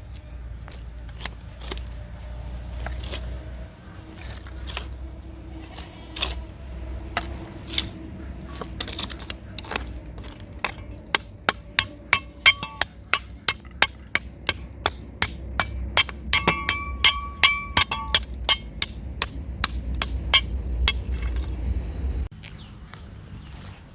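Repeated sharp blows of a hand tool striking wood, as in hammering or chopping, speeding up to about three a second about halfway through, some with a brief ringing tone. The blows stop suddenly near the end.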